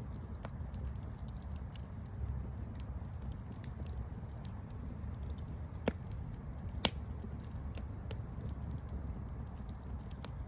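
Campfire burning with a steady low rumble of flames and frequent small crackles, and two louder pops about six and seven seconds in.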